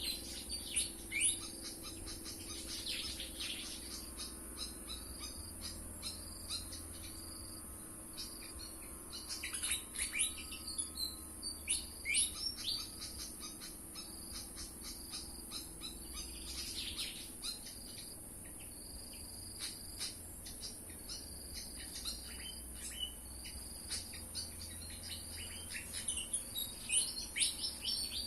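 Pied fantail song: clusters of quick, falling chirpy notes every few seconds, over a steady high insect drone.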